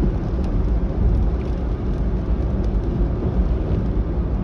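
Steady low road rumble inside a moving car's cabin, tyres and engine running.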